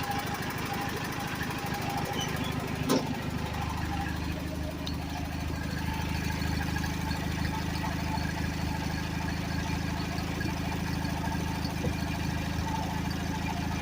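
Kohler Magnum 19.5 hp opposed-twin engine of a Craftsman GT6000 garden tractor running steadily after a cold start. A sharp click comes about three seconds in, after which the engine note settles slightly steadier and fuller.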